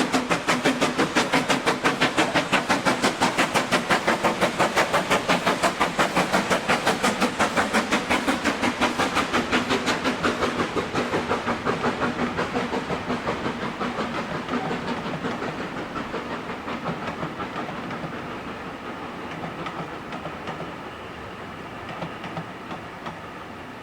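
Steam locomotive working hard, its exhaust chuffing in rapid, even beats that fade steadily from about halfway through as the train draws away.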